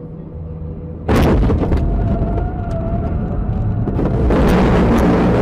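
A vehicle collision: a sudden loud impact about a second in, followed by sustained crashing and scraping noise with a wavering tone through the middle, and a second loud surge near the end.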